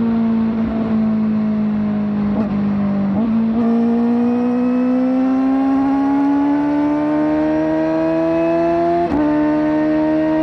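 Kawasaki ZX-4RR's inline-four engine, breathing through a slip-on exhaust, running at high revs. Its pitch holds for the first few seconds with a couple of brief breaks, then climbs steadily for about five seconds as the bike accelerates, with another short break about nine seconds in.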